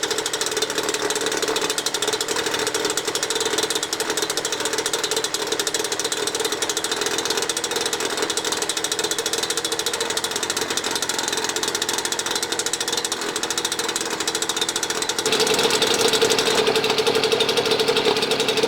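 A British Seagull single-cylinder two-stroke outboard motor running steadily on its first run after a cylinder change and new gaskets. It gets louder about fifteen seconds in.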